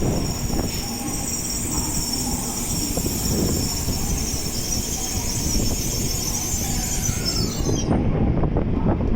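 Tokaido Shinkansen train moving at low speed through a station track, its wheels squealing over a steady rumble. The squeal cuts off about eight seconds in.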